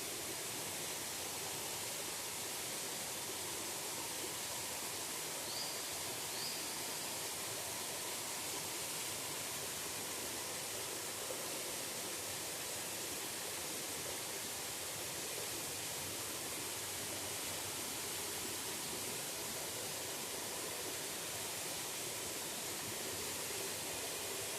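Waterfall rushing: a steady, even wash of falling water. Two short high chirps come about five and six seconds in.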